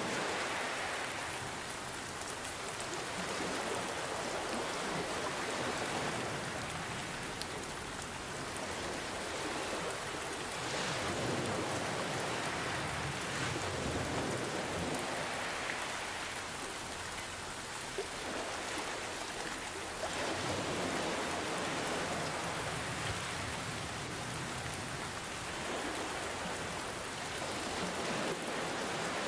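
Steady rain falling, mixed with ocean waves that swell and ebb every few seconds.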